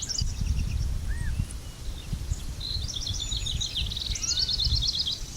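Songbirds singing in rapid, trilled phrases, a burst at the start and a longer one from about halfway through, with a few short single calls between. A steady low rumbling noise runs underneath.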